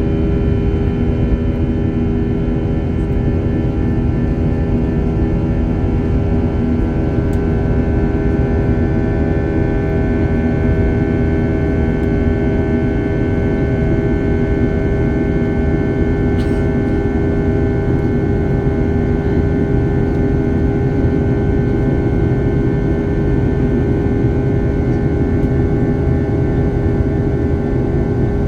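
Steady jet airliner cabin noise: a constant low rumble of engines and airflow with several steady droning tones on top, unchanging in level.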